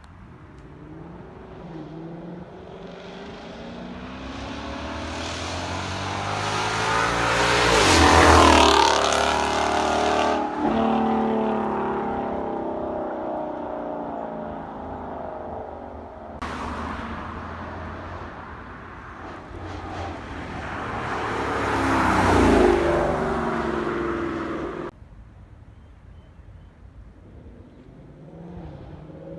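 Ford Mustang GT's 5.0 V8 through a Corsa Xtreme cat-back exhaust driving past at wide open throttle, twice: each time it grows louder on the approach, is loudest as it goes by, and drops in pitch as it pulls away. The second pass cuts off suddenly near the end.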